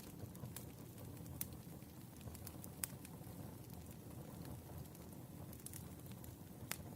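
Firewood burning: a low, steady rumble of the fire with sharp crackling pops scattered irregularly, about five or six of them.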